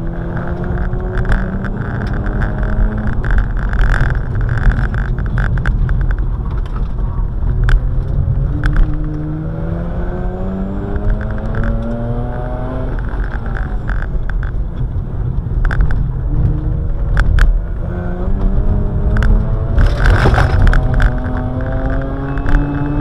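Car engine heard from inside the cabin, driven hard on a sprint run: its pitch climbs under acceleration and falls back a few times before climbing again, over steady road and tyre rumble. Occasional sharp clicks and knocks, with a burst of hiss near the end.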